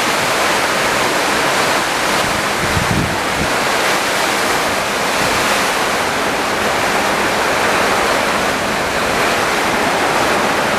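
Summer storm: strong wind and heavy rain making a steady, loud rushing noise, with a brief low thump about three seconds in.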